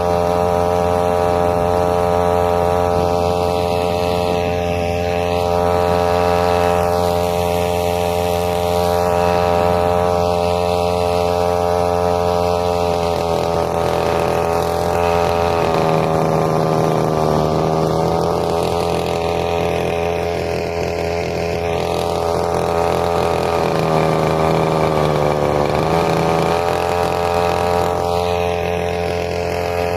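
Small outboard motor pushing a kayak, running steadily at cruising speed. Its pitch dips slightly for about ten seconds midway, then comes back up.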